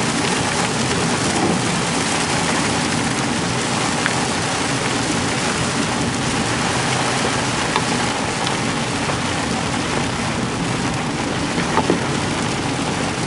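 Heavy rain falling on a moving car, heard from inside the cabin as a steady hiss mixed with road and tyre noise, with a few faint clicks.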